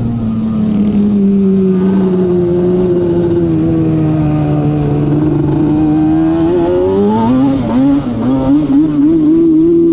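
Yamaha Banshee's twin-cylinder two-stroke engine, bored out with a Cheetah 426 kit, under riding load. The revs drop at the start and the pitch sinks slowly for several seconds, then climbs sharply about seven seconds in and holds high, wavering with the throttle.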